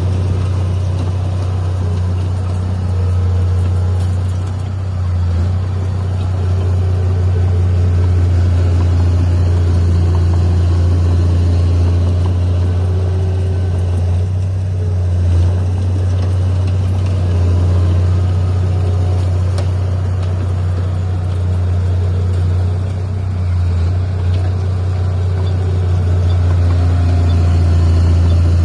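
Heavy diesel earthmoving machinery running steadily with a strong low hum, easing off briefly a couple of times.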